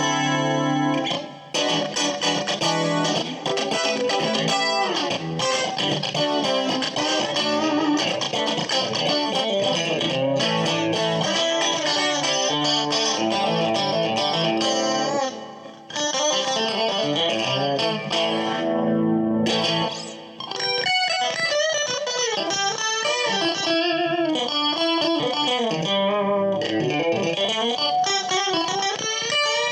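Fender Stratocaster electric guitar with Custom Shop Fat '50s single-coil pickups played with a clean tone, running through chords and melodic lines. The playing breaks off briefly three times, and in the last third the notes are bent and waver in pitch.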